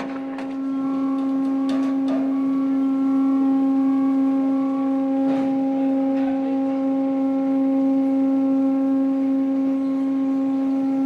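A steady, loud machine drone: one held low tone with overtones that swells about half a second in and runs on unchanged, with a few faint clicks early on.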